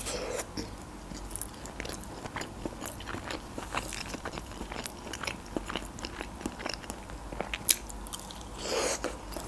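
Close-up chewing and biting of a slice of quiche with a shortcrust pastry base: many small crisp crunches and mouth clicks, with a sharper fresh bite near the end.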